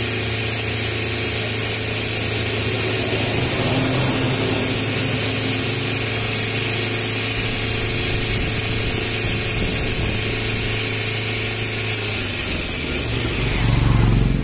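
Chevrolet Spark's petrol engine idling steadily under the open hood while it circulates a flush through the cooling system. Near the end the steady note breaks up and the sound swells briefly.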